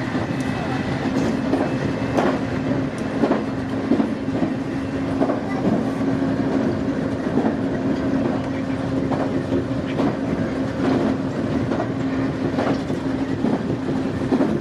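Nankai Main Line electric train running on the rails, heard from inside the car at the front: wheels clicking over rail joints about once a second over a steady running rumble and hum.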